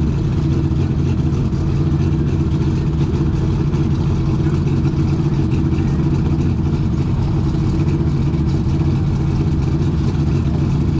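Superstock pulling tractor's engine running steadily at a high idle, with no clear rev-up.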